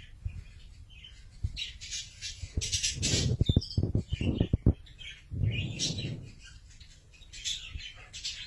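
A bird chirping and squawking in short high calls, over a run of loud knocks and rustling about three to five seconds in.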